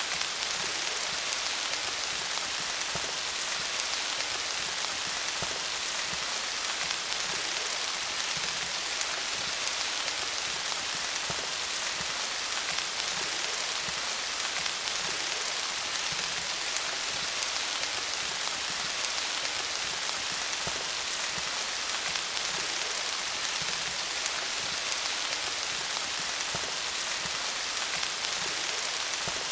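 Steady rain falling on leaves: a dense, even hiss of drops, with faint individual drop taps scattered through it.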